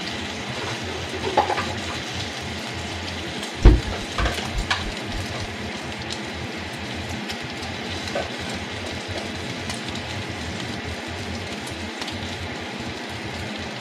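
Fried rice with bacon frying in a pan on the stove, a steady sizzle. A few clattering knocks come over it, the loudest about four seconds in.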